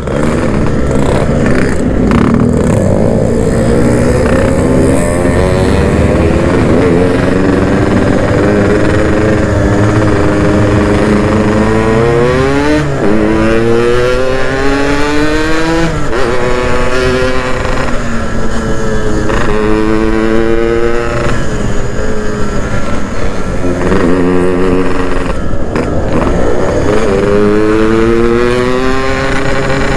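Yamaha RX-King single-cylinder two-stroke engine under way, revving up through the gears: the pitch climbs again and again, each time dropping back at a gear change. The owner reckons its compression is down and the engine is due for an oversize rebore.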